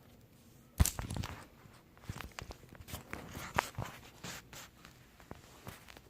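Irregular handling noise: a sharp knock just under a second in, then a scatter of small clicks, taps and rustles.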